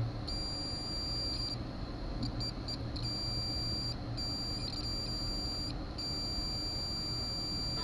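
Multimeter's continuity beeper sounding a high, steady tone in on-and-off beeps as the probes touch: a long beep, a few quick blips about two seconds in, then longer beeps. The beeping shows continuity to ground in the Jeep's ignition circuit: something is grounded. A low steady hum runs underneath.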